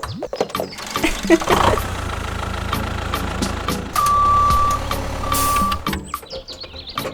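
A vehicle engine running steadily, with two long, high electronic beeps about four and five and a half seconds in.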